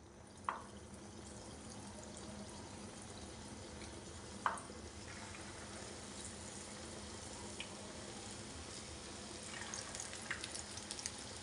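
Potato pakora batter balls frying in hot oil in a shallow pan: a steady sizzle, with a sharp crackle as a ball goes into the oil about half a second in and again about four and a half seconds in, and small crackles near the end.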